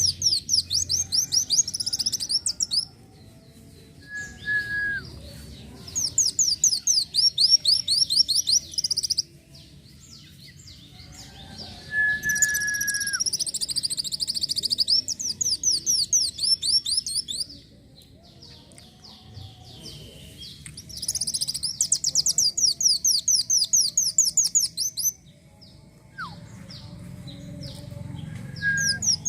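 Kolibri wulung sunbird singing: bursts of fast, high, repeated chirping trills, each lasting a few seconds with short pauses between, and an occasional short lower whistle note.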